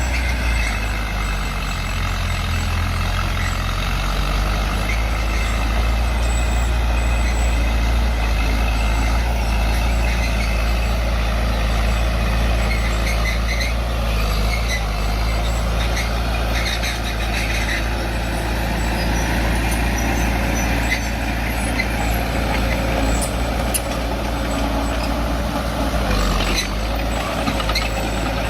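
Heavy diesel earthmoving machinery running steadily with a deep engine rumble. Scattered light clicks and squeaks come in over it in the second half.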